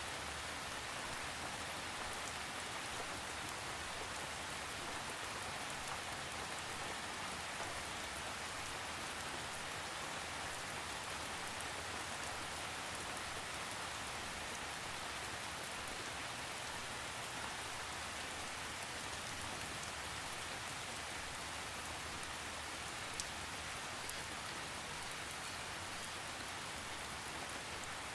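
Steady rain falling on a surface: an even hiss with faint individual drop ticks, without thunder.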